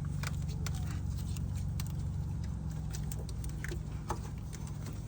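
A steady low mechanical hum with scattered light clicks and taps over it.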